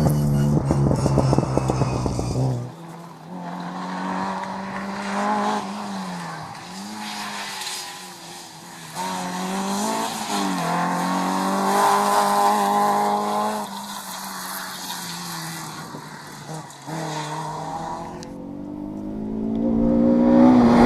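Rally car engine close by for the first couple of seconds, then heard further off, its revs rising and falling again and again through gear changes and braking. Another car grows loud near the end as it approaches.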